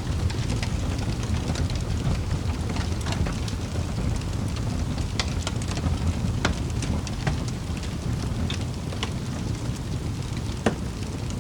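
Fireplace fire crackling: a steady low rumble of burning with frequent small sharp pops, and one louder pop near the end.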